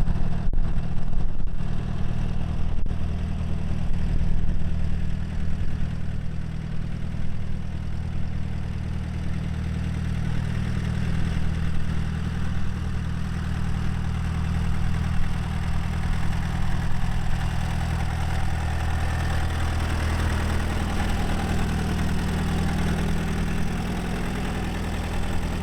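1951 Allis-Chalmers Model B tractor's four-cylinder gasoline engine idling steadily, with a few brief dropouts in the sound in the first few seconds.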